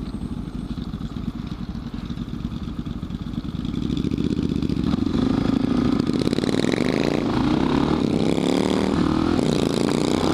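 Suzuki DR650's single-cylinder engine running at low revs, then pulling harder and accelerating through the gears. Its pitch rises and drops back at each shift, about two-thirds of the way through and again near the end.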